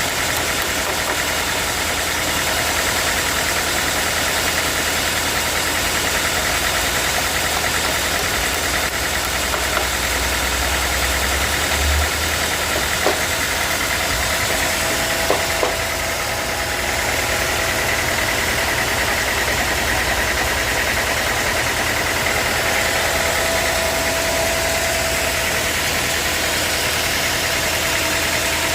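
Sawmill running steadily, its engine humming under the noise of the saw, with a few sharp clicks near the middle and a thin whine joining in later on.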